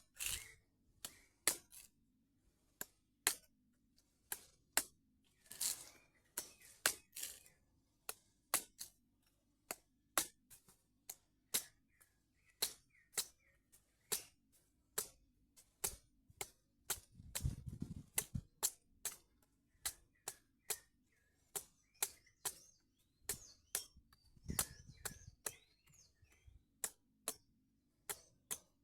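Blade strikes chopping the husk off a coconut: sharp, hard cracks repeated at an uneven pace of close to two a second.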